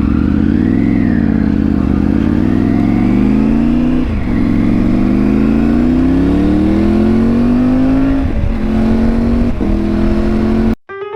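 Triumph 900 motorcycle engine under way, revs climbing steadily and dropping at upshifts about four seconds in and twice more near the end, then cutting off suddenly.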